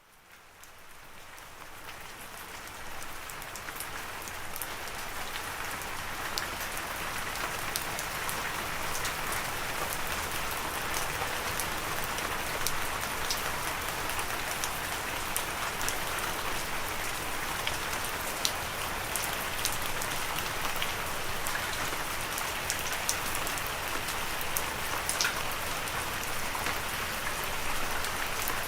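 Steady rain falling, fading in from silence over the first few seconds, with individual drops ticking sharply on a surface.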